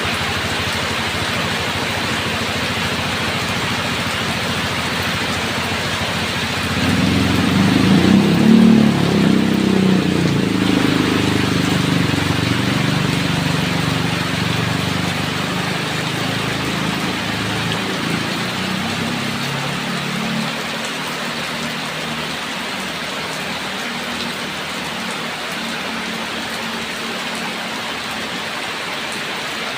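Steady rain falling, with a roll of distant thunder that swells about seven seconds in, peaks a couple of seconds later and slowly fades away over the next ten seconds or so.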